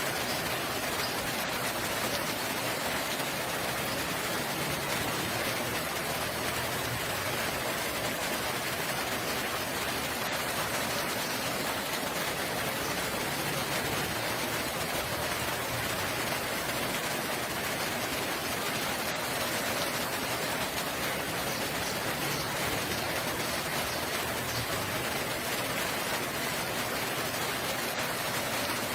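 Steady rain falling, a dense even hiss that stays constant throughout.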